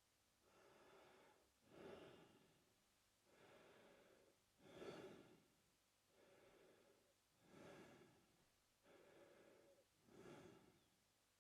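A man breathing slowly and faintly through his mouth. There are about four breath cycles, each a softer breath followed by a louder one, one cycle every two and a half to three seconds.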